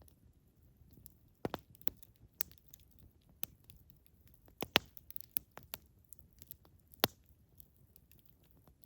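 Campfire wood burning and crackling, with irregular sharp pops, the loudest about halfway through and again near 7 seconds in, over a faint low rumble.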